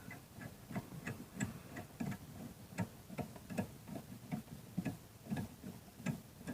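Ratchet wrench clicking in short strokes, about three clicks a second, running a small bolt down once its thread has caught.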